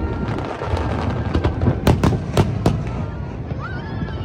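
Aerial fireworks bursting in a finale barrage: a series of sharp bangs over continuous low rumbling and crackling.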